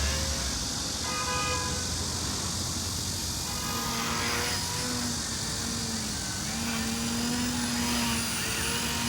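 Electric motor and propeller of a small RC foam plane running, its hum rising and falling in pitch as the throttle changes, over a steady background hiss.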